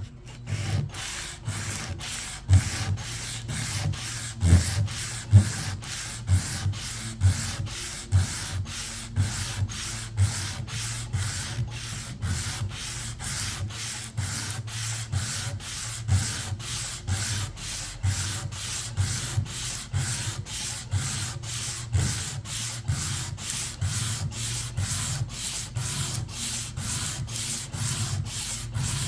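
Hand sanding in steady back-and-forth strokes, about two to three a second, rubbing off old paint and finish.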